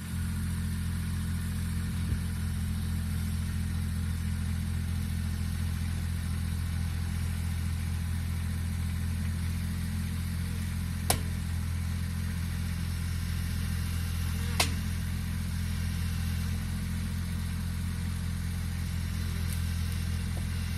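Kubota DC-35 combine harvester's diesel engine running steadily at a constant low hum, with three sharp knocks, one about two seconds in and two more in the second half.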